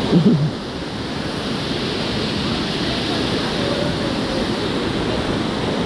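Steady rushing of a waterfall and river water, with a brief short voice right at the start.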